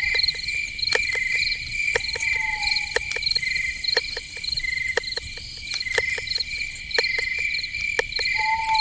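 Night insects, crickets, chirp in steady repeating pulses. A short falling whistle-like call sounds about two seconds in and again near the end, over frequent sharp clicks.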